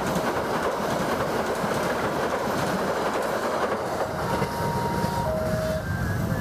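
Passenger train coaches rolling past close by, wheels clacking over the rail joints under a steady rumble. The noise thins out after the last coach passes about four seconds in.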